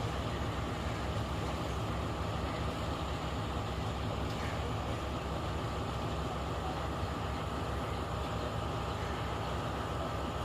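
Diesel engine of a repowered Class S9 diesel multiple unit running at a steady pace, a low even drone.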